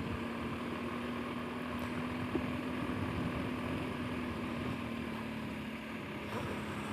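Motorcycle engine running steadily at a slow riding pace, an even drone that holds one pitch throughout, with a single small click about two and a half seconds in.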